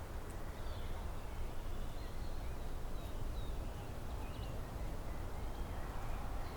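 Songbirds chirping faintly, short high calls scattered throughout, over a steady low background rumble.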